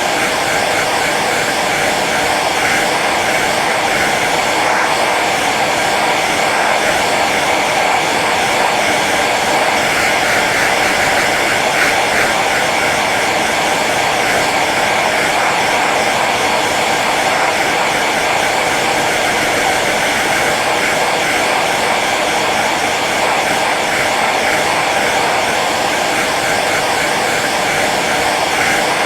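Hair dryer running steadily on its low setting: an even rush of blown air over the hum of its motor and fan.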